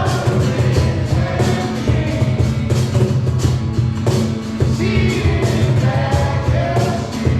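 Live worship band playing a rock-style song with drums, bass and singing.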